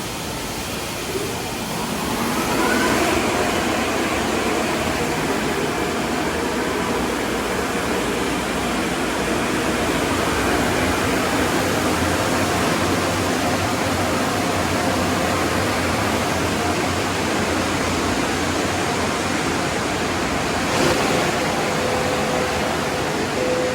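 Automatic tunnel car wash running: a steady rushing noise of its sprayers and machinery, which grows louder about two and a half seconds in.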